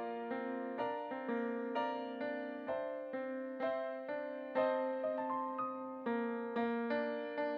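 Solo piano playing a slow, gentle piece, with notes struck roughly twice a second and each left to ring and fade.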